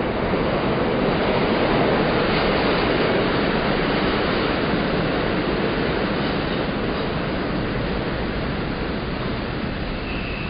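Train passing by: a steady rushing rumble that builds to its loudest about two seconds in and then slowly fades.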